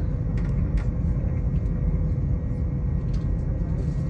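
Steady low rumble of a moving electric train, heard from inside the carriage, with a faint steady hum.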